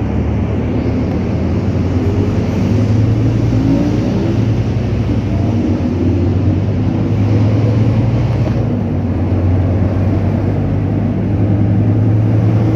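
Scania K310UA rear-mounted diesel engine heard from inside the articulated bus as it drives, a steady low drone with its note rising and falling, and a change in the note about two-thirds of the way through.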